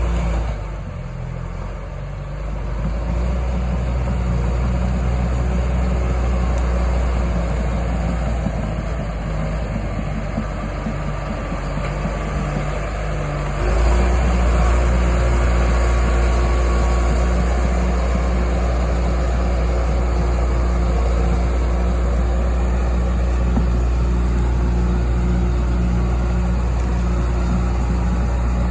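John Deere 450G crawler dozer's diesel engine running steadily. It dips briefly near the start, then steps up louder about halfway through as it works harder.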